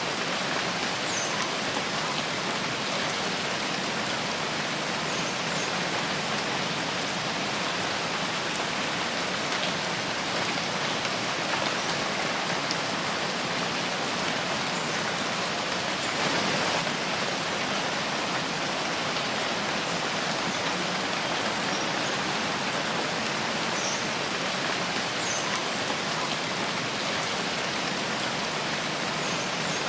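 Steady rain falling in a forest: an even hiss of drops, briefly a little louder about halfway through.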